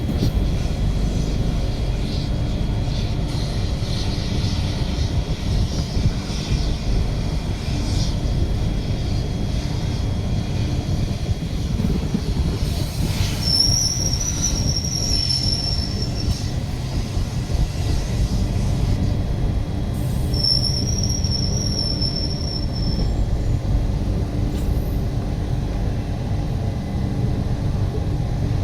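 Parashuram Express passenger train running on the rails with a steady low rumble. Twice, about halfway through, its wheels squeal in a high, nearly steady tone for two or three seconds.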